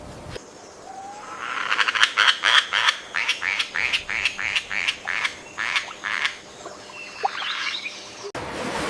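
A frog croaking in a fast, even series of pulsed calls, about three or four a second.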